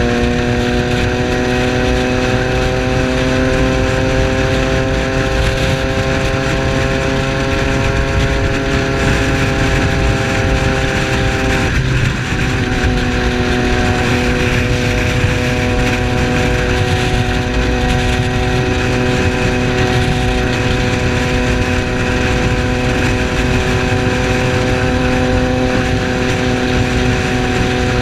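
Triumph Street Triple's 675 cc inline-three engine under way, its note rising slowly for about twelve seconds. It then breaks off briefly, as at a gear change, and runs on steadily at a slightly lower pitch over a steady rush of wind.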